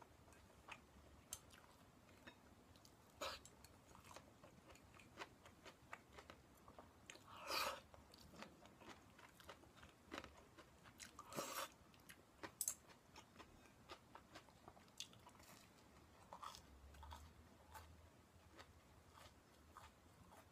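A person chewing food close to the microphone: soft, irregular mouth clicks and crunches, with a few louder crunchy bites, the loudest about a third of the way in and just past halfway.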